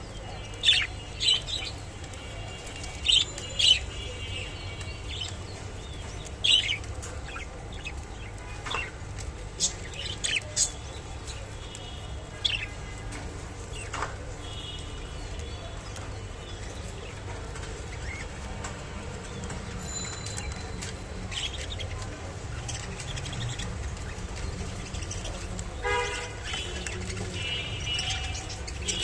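Budgerigar chirping in short, sharp calls, several in quick succession in the first ten seconds and again near the end, over a steady low hum.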